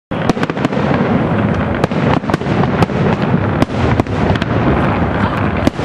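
Fireworks display at full barrage: aerial shells bursting in quick succession, sharp bangs and crackles several times a second over a continuous dense rumble of the blasts.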